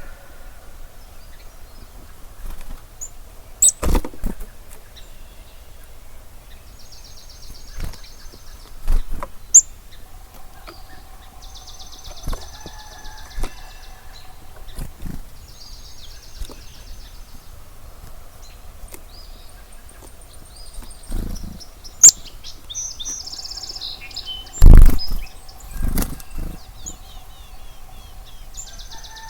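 Dawn birdsong over a marsh: one bird repeats a fast, high trill of about a second and a half several times, with other short calls around it. Several sharp thumps cut in, the loudest about four seconds in and again near twenty-five seconds.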